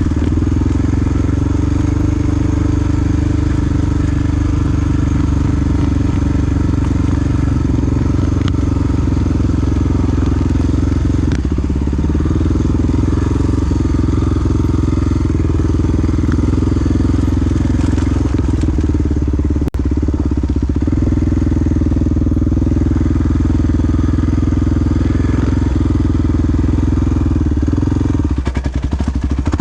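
Single-cylinder four-stroke engine of a Honda XR dual-sport motorcycle running steadily while riding, with a brief drop in the engine note near the end.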